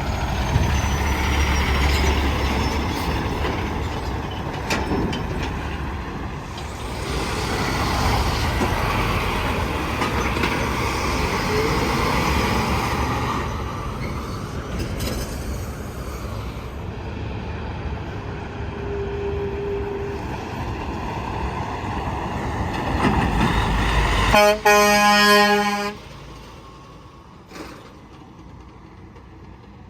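Semi-trucks passing on a highway, a steady rush of engine and tyre noise that swells and fades with each passing vehicle. Near the end a truck sounds one loud horn blast of about a second and a half, after which the traffic is much quieter.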